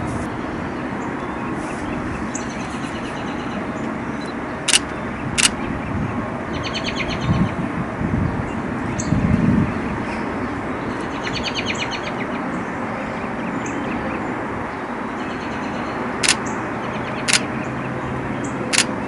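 Backyard birds calling in short rapid chattering phrases twice, with five sharp clicks scattered through, over a steady outdoor background hiss.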